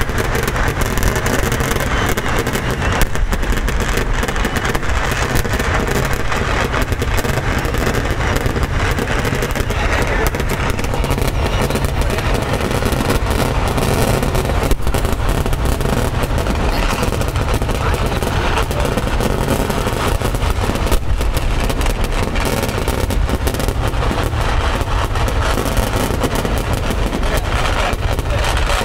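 A large fireworks display going off in a dense, unbroken barrage of rapid bangs and crackles, with no pause.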